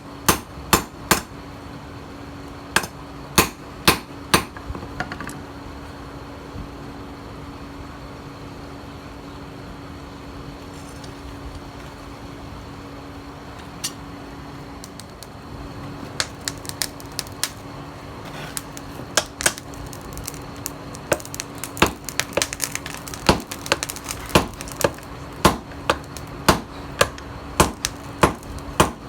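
Hand hammer striking steel on an anvil, forging a knife blank from a tiller blade, each blow sharp and ringing. Several blows, then a pause of about ten seconds with only a steady hum, then the hammering resumes and quickens to one or two blows a second.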